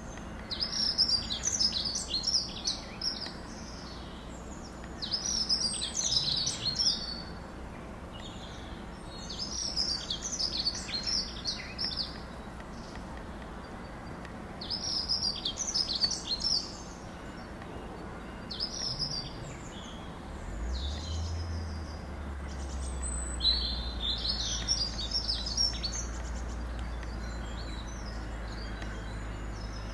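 A bird singing short phrases of high chirping notes, a new phrase every three to five seconds. A low steady rumble comes in about twenty seconds in.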